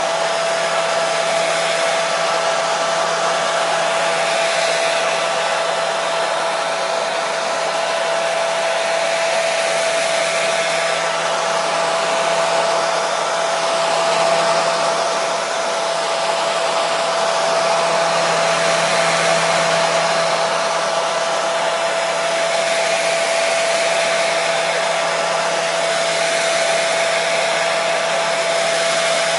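Hair dryer running continuously: a steady airflow rush with a constant motor whine and a low hum underneath.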